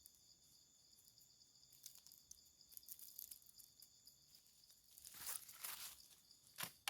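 Faint steady high-pitched drone of insects, with scattered small crackles and clicks, and a louder patch of rustling about five seconds in.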